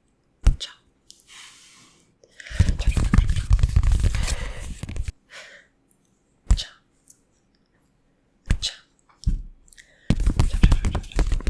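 Close-miked ASMR crackling and crinkly rubbing sounds in two dense bursts of a few seconds each, with a few single sharp clicks in between.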